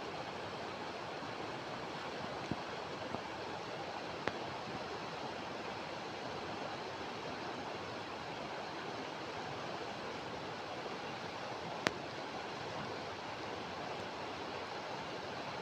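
Steady rushing of a stream flowing over rocks, with a few short sharp clicks on top, the loudest about twelve seconds in.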